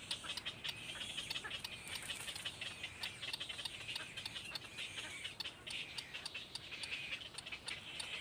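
Small birds chirping steadily and high-pitched, with many sharp ticks scattered through it.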